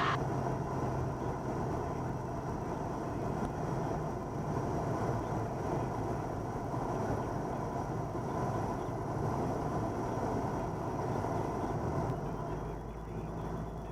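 Cabin sound of a 1977 Cessna 172N's four-cylinder Lycoming engine running steadily at reduced power with air noise on short final for landing, easing slightly near the end.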